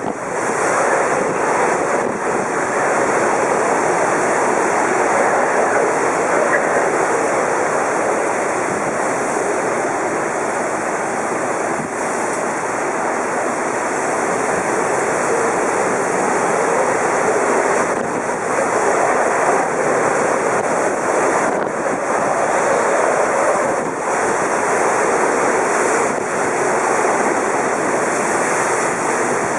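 Typhoon wind and heavy rain, a loud steady rush that swells and eases with the gusts, with wind buffeting the microphone.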